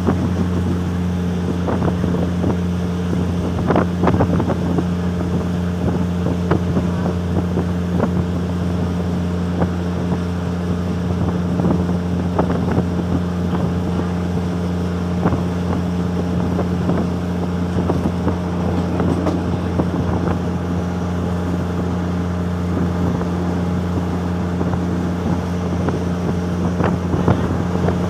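Steady drone of a moving diesel train heard from inside a carriage, its engine hum holding one pitch, with irregular clicks and knocks from the carriage riding the track.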